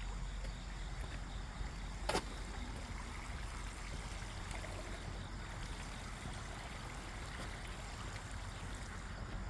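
Steady outdoor background noise with a low rumble, broken by a single sharp click about two seconds in.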